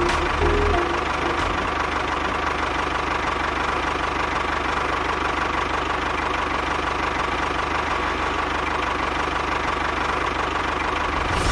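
A small motor or engine running steadily at constant speed, an even mechanical whirr with a steady whine and low hum.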